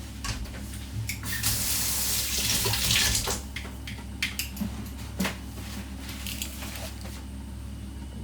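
Kitchen tap running for about two seconds, then a few light clicks and knocks of kitchenware.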